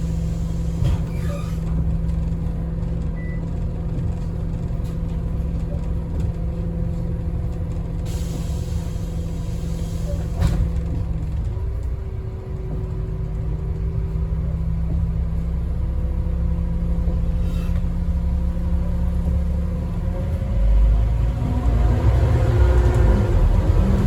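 Scania N230UD double-decker bus's diesel engine idling steadily at a stop, heard from inside, with a short hiss of air about eight seconds in and a sharp click a couple of seconds later. Near the end the engine note rises and grows louder as the bus pulls away.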